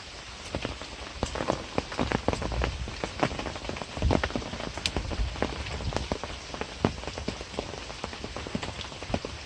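Rain falling, a steady hiss with many separate drops pattering irregularly, and a few low bumps.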